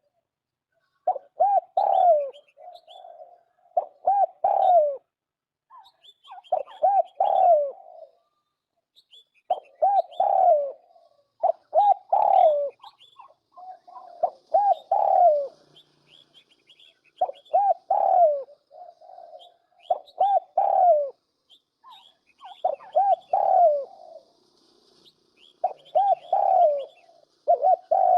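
Turtle dove cooing repeatedly: a short phrase of two or three arching coos every two to three seconds. Faint high chirps from small birds sound between the phrases.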